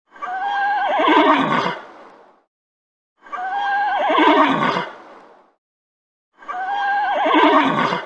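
Horse whinnying three times, about three seconds apart, each a wavering, shaking call that fades out.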